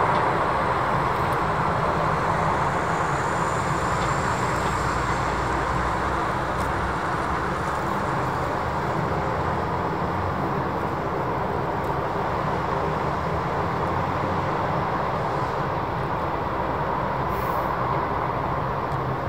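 Jet airliner engines running with a steady roar that slowly eases.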